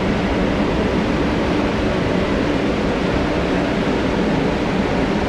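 100 hp CompAir LeRoi rotary screw air compressor running steadily, unloaded with no air line connected so it builds no back pressure: an even rush of noise over a steady low hum.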